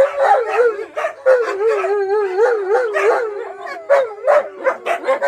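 A pack of wolfdogs howling together: several long, overlapping howls with a wavering pitch, mixed with short yips and barks that come thick and fast near the end.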